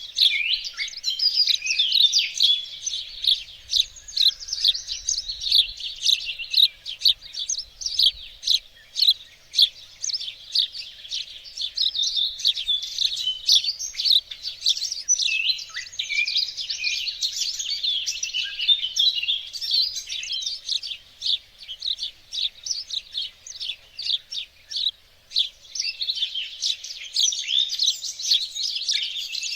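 Several small songbirds singing and chirping together in a dense, continuous chorus of rapid high twitters and trills.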